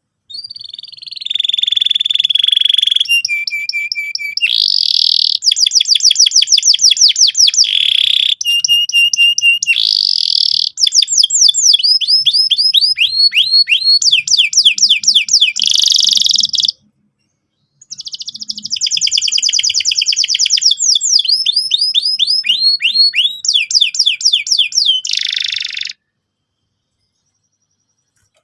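Domestic canary singing loudly in long rolling trills of rapid, repeated chirps and whistled notes. The song breaks off for about a second past the middle, resumes, then stops a couple of seconds before the end.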